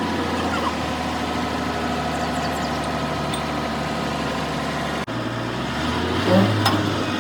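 An engine idling steadily. About five seconds in the sound breaks off and gives way to another engine hum, with a few short knocks near the end.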